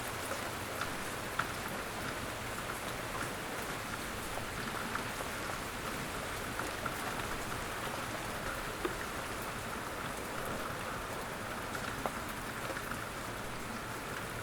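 Steady rain falling, a continuous hiss with many scattered drop ticks on a surface.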